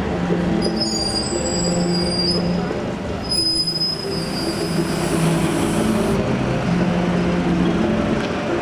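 Metrolink tram wheels squealing on curved track, high thin squeals from about half a second in until about five seconds in. Under it runs the steady drone of idling bus engines.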